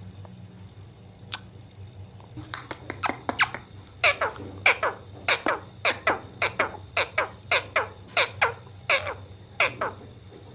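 A parrot calling in a rapid series of short harsh squawks, each sweeping sharply down in pitch, about three a second, beginning a couple of seconds in.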